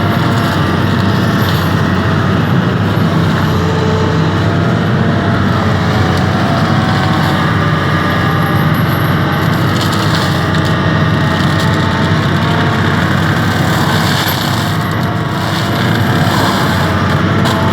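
An excavator's diesel engine runs steadily under load, driving a hydraulic forestry mulcher head with a rotor of fixed teeth, with a few short bursts of brighter crackling noise.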